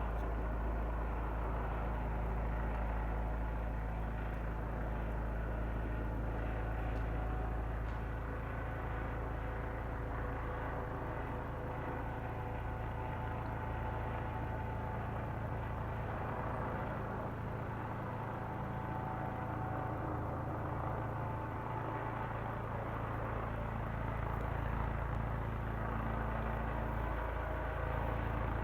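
Police helicopter overhead: a steady drone of engine and rotors with a deep low rumble, holding level throughout.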